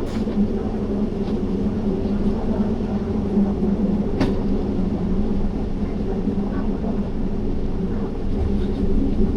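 Passenger train running along the track, a steady rumble with a sharp click about four seconds in.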